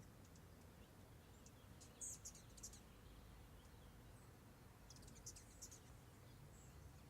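Near silence: faint outdoor ambience with clusters of short, high chirps about two seconds in and again about five seconds in.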